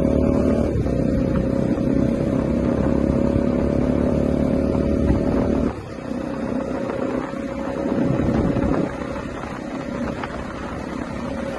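Bajaj Dominar 250's single-cylinder engine running steadily while riding, its level dropping off about six seconds in as the throttle eases.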